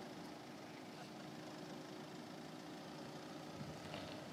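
Land Rover Freelander's engine running faintly and steadily as the car drives away over a dirt and gravel track.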